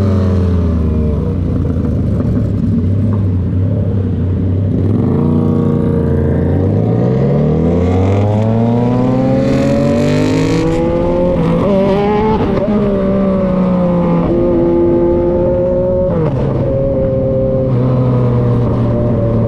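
Yamaha XSR900's three-cylinder engine through an SC-Project CRT aftermarket exhaust, riding on the road: the engine note drops as the bike slows over the first few seconds, then climbs through the revs as it accelerates, and settles into a steady cruise with a brief dip near the end.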